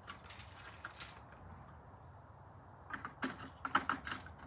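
Small clicks, knocks and rattles of hard objects being handled, in two brief clusters: one at the start and a busier one about three seconds in.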